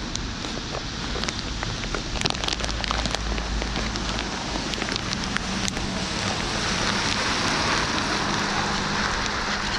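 Steady rain pattering, with scattered sharp drop ticks in the first few seconds. The hiss thickens in the second half, and a faint low hum joins it after about six seconds.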